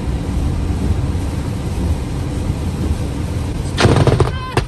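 Steady low rumble, then about four seconds in a loud, sudden crack of a close lightning strike, followed by a second sharp crack.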